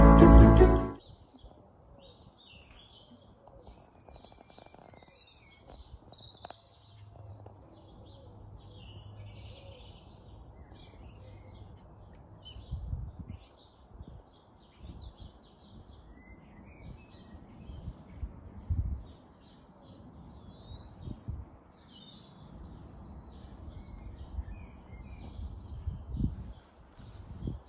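Wild birds singing and calling: many short whistled notes and chirps, some held briefly on one pitch, over faint outdoor background with occasional low rumbles. Background music fades out about a second in.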